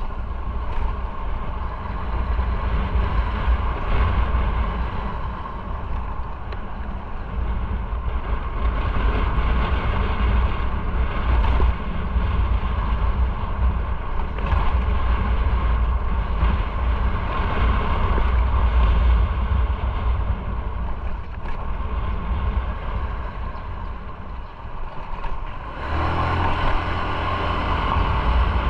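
Motorcycle on the move: engine running steadily under wind and road noise. Near the end the sound shifts, with more hiss in the upper range.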